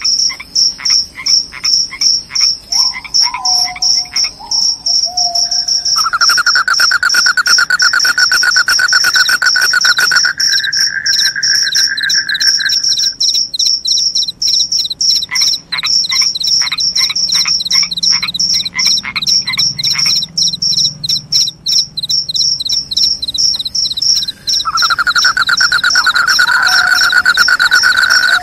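Crickets chirping loudly in a fast, steady high-pitched pulse, layered with a lower rapid trill that comes in about six seconds in and again near the end, and runs of separate clicking calls in between.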